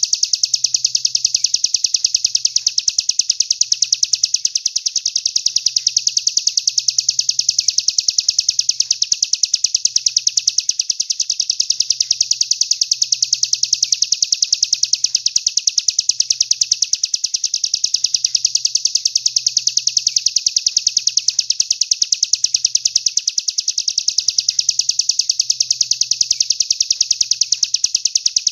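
Songbird masteran recording: a continuous, very fast trill of rapidly repeated high chirps that keeps going without a break.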